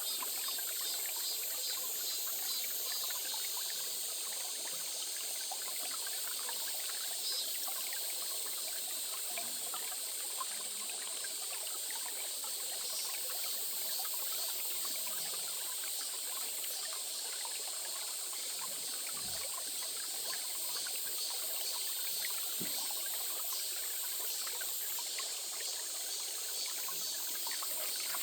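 Small stream trickling and flowing steadily over stones.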